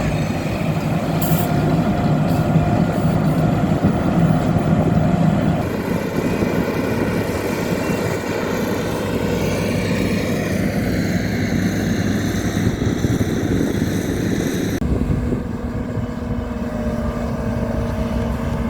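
Engines of heavy road-building machinery running steadily during asphalt paving. The sound changes abruptly about six seconds in and again near the end.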